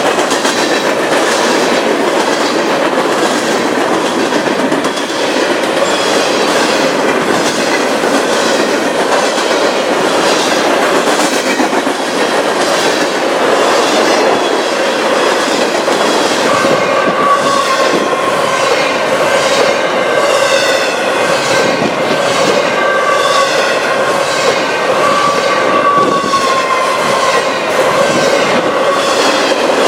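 Train cars rolling past with a steady, rhythmic clickety-clack of wheels over rail joints. From about halfway through, a wavering squeal of wheels on the rails joins in.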